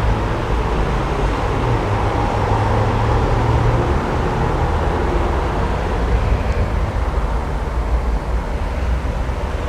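Mercedes-AMG CLA45's 2.0-litre four-cylinder twin-turbo engine running, a steady low exhaust rumble that drops a little after about four seconds.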